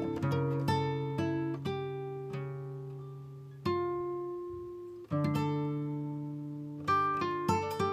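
Background music: acoustic guitar playing plucked notes and chords that ring out and fade between strokes.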